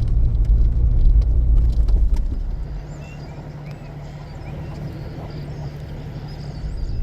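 A Jeep driving, its low engine and road rumble loud at first. After about two and a half seconds it eases into a quieter, steady hum.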